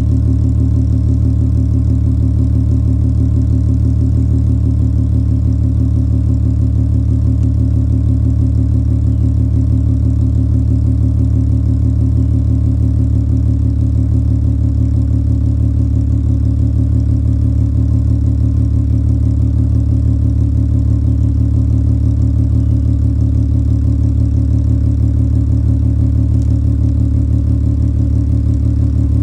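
2003 Volkswagen Jetta GLI engine idling steadily while warming up after a cold start.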